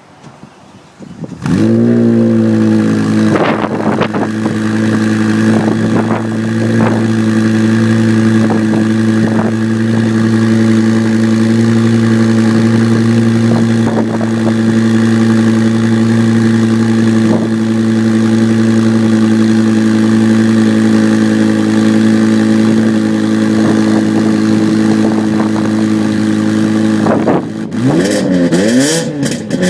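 BMW M6 engine through a full custom exhaust starting up about a second and a half in, flaring and settling into a steady idle. Near the end it is revved a few times, the pitch rising and falling.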